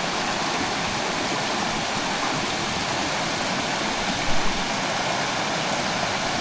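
A small mountain stream flowing steadily, an even rushing noise, with a brief knock about two-thirds of the way through.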